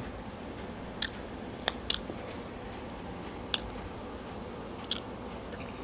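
A person chewing a mouthful of lasagna with the mouth closed: about five short, sharp wet clicks and smacks, spaced irregularly over a steady faint room hum.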